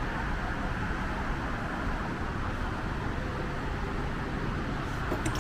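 Steady noise of a Metro rail station, a hum and hiss with no clear events, with a few faint clicks near the end.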